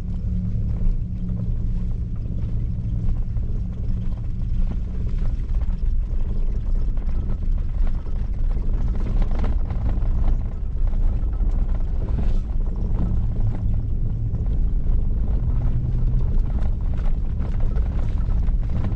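Pickup truck driving over snowy ground, heard from inside the cab: a steady low engine drone with scattered light knocks and rattles.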